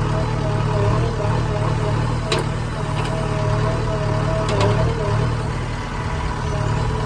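Heavy diesel machine engine running steadily, with a steady whine over it and a few sharp clicks near the middle.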